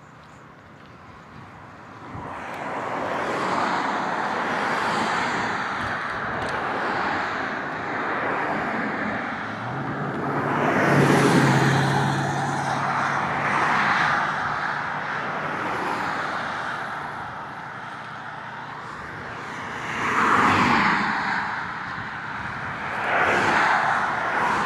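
Road traffic: vehicles passing close by one after another. The loudest passes about ten seconds in, carrying an engine hum, and two more come near the end.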